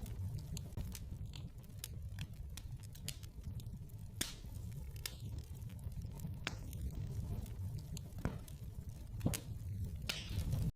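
Wood fire burning in a fireplace, with a steady low rumble and irregular sharp crackles and pops, a few of them louder, and a brief hiss near the end.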